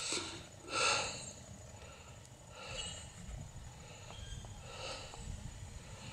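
A man breathing hard, out of breath from cycling, with a heavy breath about every two seconds.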